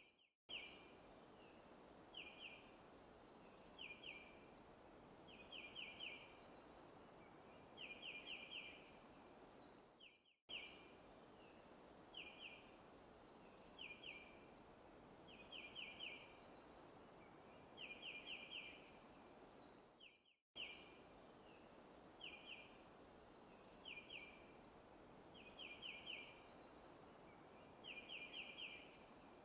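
Faint recorded forest ambience: a bird chirping in short bursts of quick high notes, singles then runs of three or four, over a steady soft hiss. The same ten-second stretch repeats, with a brief drop to silence each time it starts over.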